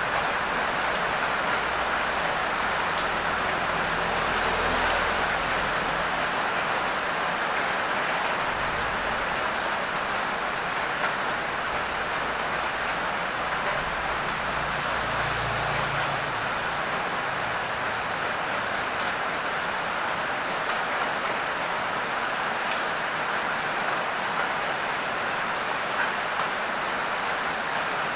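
Heavy rain falling steadily, an even hiss, with a low rumble underneath for the first several seconds and again briefly in the middle.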